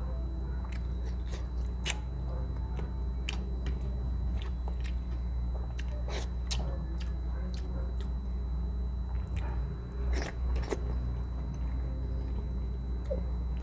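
A person chewing and biting mouthfuls of vinegar-stewed milkfish (paksiw na bangus), eaten by hand. Many wet, irregular mouth clicks and smacks sound over a steady low hum.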